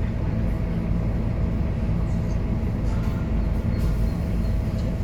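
Scania K230UB city bus's diesel engine running steadily, a continuous low rumble.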